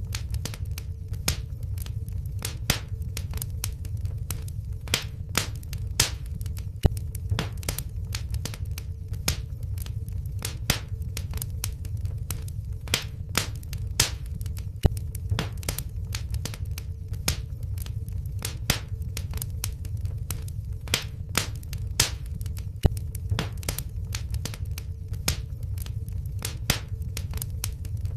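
Wood fire in a fireplace crackling: sharp irregular pops of burning logs, a few each second, over a steady low rumble of the flames.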